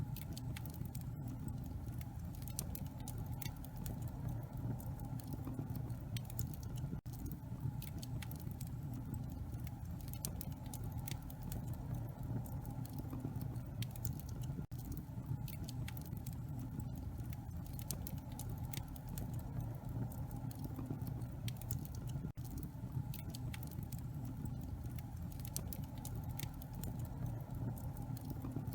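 Wood fire burning in a fireplace: many small, sharp crackles and pops scattered irregularly over a steady low rumble.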